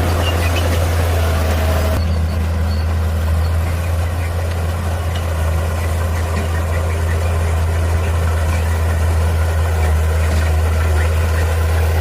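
Heavy earthmoving machine's diesel engine running steadily with a deep, even drone; the higher-pitched noise above it drops away suddenly about two seconds in.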